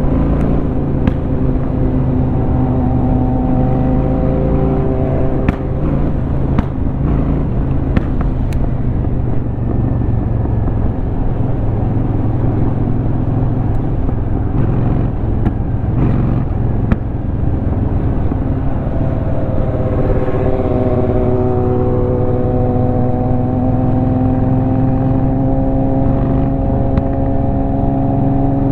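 2004 Honda Shadow 750's V-twin running through its aftermarket Rinehart exhaust, heard over wind rush at the helmet. There are a few sharp exhaust pops between about five and nine seconds in, and the engine note climbs slowly near the end as the bike speeds up.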